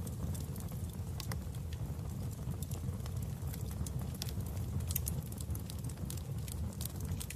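Fireplace fire crackling: a steady low rumble of flames with frequent, irregular sharp pops and snaps.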